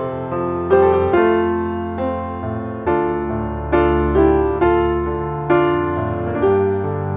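Background music: slow, gentle piano, with chords and melody notes struck about once or twice a second and fading over held bass notes.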